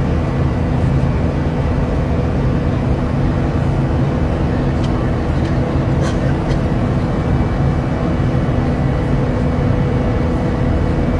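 Steady cabin drone of an Airbus A380 in flight: an even low rush of engine and air noise with a few constant hum tones, and a couple of faint clicks near the middle.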